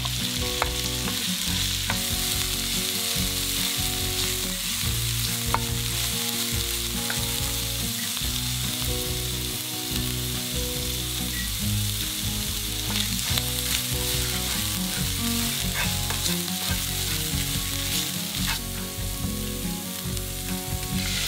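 Minced pork sizzling in hot oil in a nonstick frying pan, with a wooden spatula scraping and clicking against the pan now and then as the meat is stirred.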